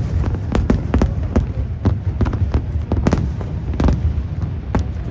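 Fireworks bursting in rapid, irregular succession, several sharp bangs a second over a continuous low rumble of distant explosions.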